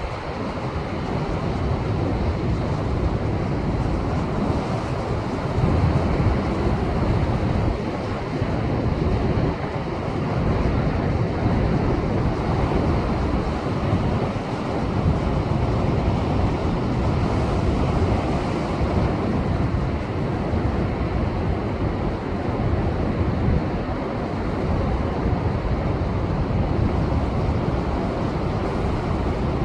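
Heavy post-typhoon surf breaking and churning against a rocky shore, a continuous rush of water that swells and eases every several seconds.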